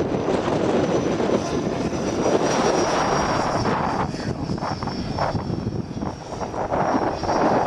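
Electric radio-controlled model helicopter flying: a steady, slightly wavering high whine from its motor and rotor over heavy wind buffeting on the microphone.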